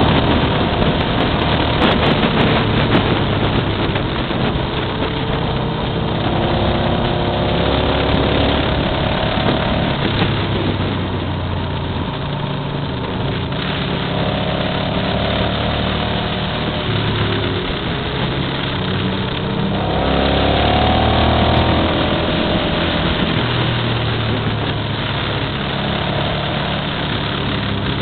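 Motorcycle engine running under way, heard from on the moving bike, its pitch rising and falling every few seconds with the throttle through a series of bends, over a steady rush of wind noise.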